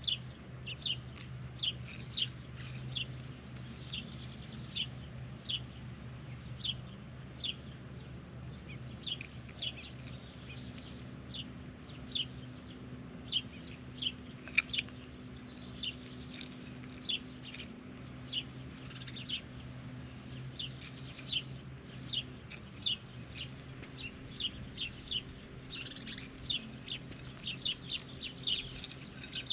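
A bird chirping over and over, short sharp chirps about twice a second, over a low steady hum.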